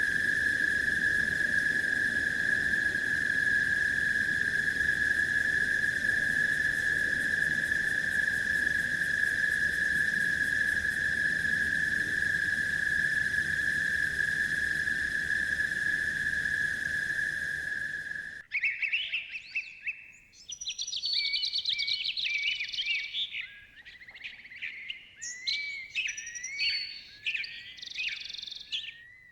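Forest ambience: a steady, unbroken chorus at one high pitch, of the kind massed crickets or frogs make, runs for about eighteen seconds and then cuts off suddenly. Birdsong takes over, several birds chirping and singing in short, varied phrases.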